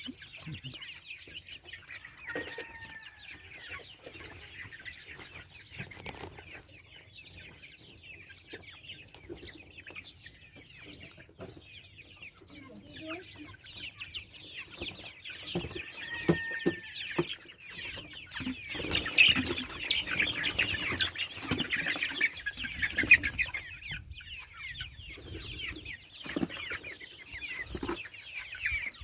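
A flock of goslings peeping: a continuous stream of short, high peeps that grows much louder and busier about two-thirds of the way through. A few longer, lower-pitched calls stand out near the start and in the middle.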